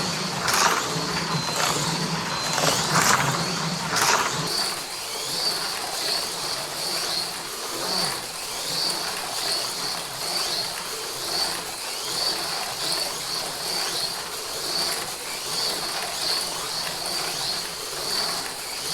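AFX Mega G+ HO slot cars running laps: a high electric-motor whine that swells and fades as the cars pass, in a steady rhythm about every two-thirds of a second. There are a few sharp knocks in the first four seconds.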